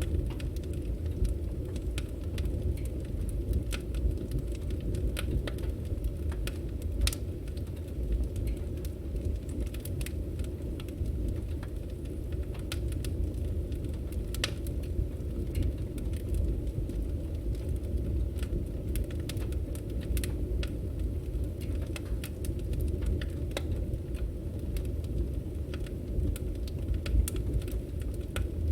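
Burning firewood: a steady low rush of flames with frequent irregular crackles and sharp pops from the wood.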